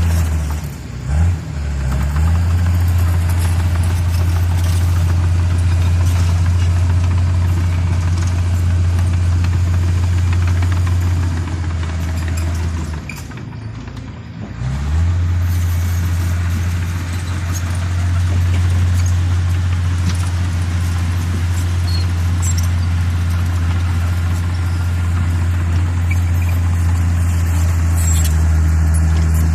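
Bulldozer's diesel engine running steadily with a deep hum and a clatter of machinery. Its note dips briefly about a second in, then sags from about thirteen seconds and picks back up around fifteen seconds.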